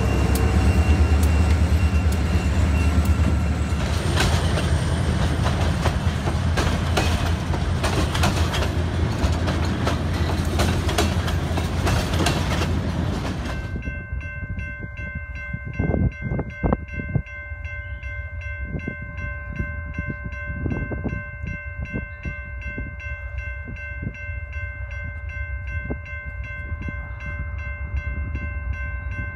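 Diesel-hauled freight train rolling past at close range, a heavy rumble with the wheels clicking over the rail joints and crossing. It then gives way to the distant lead locomotive working hard at full throttle as it approaches: a low rumble with a steady chord of high tones over it.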